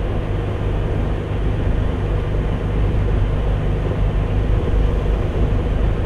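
Semi truck's diesel engine and road noise heard from inside the cab as it drives slowly, a steady low drone.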